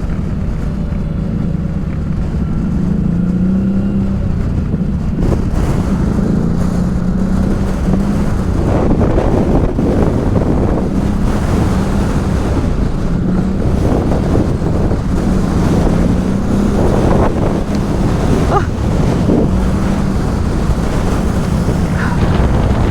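ATV engine running while riding, its pitch rising and falling with the throttle, under heavy wind buffeting on the microphone.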